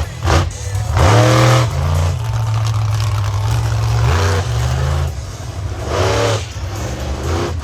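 Monster truck engine running hard, revved up in repeated bursts whose pitch climbs: about a second in, again near the middle, and twice toward the end.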